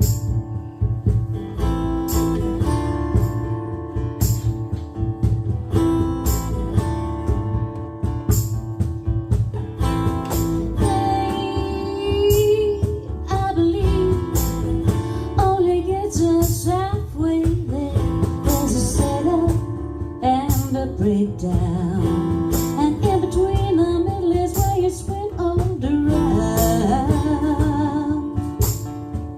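A song played on strummed acoustic guitar. A woman starts singing about a third of the way in.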